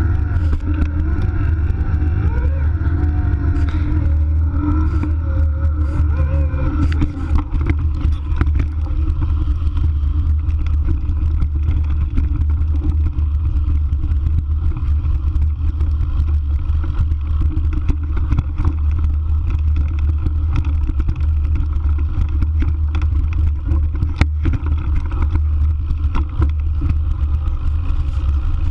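Steady wind rumble on the microphone while an electric mountain bike is ridden over a forest trail. Scattered clicks and knocks come from the bike rattling over rough ground.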